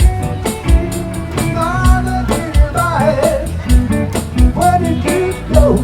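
Live rock band playing an instrumental passage: drums keep a steady beat under bass and guitar. A lead line bends up and down in pitch through the middle.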